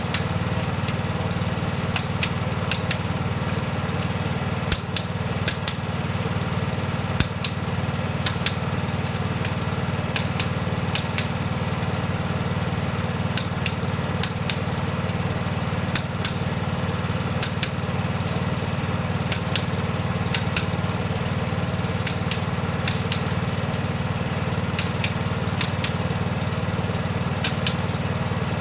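Toyota 2KD-FTV 2.5-litre four-cylinder diesel engine idling steadily, with short sharp ticks every second or so over the even running.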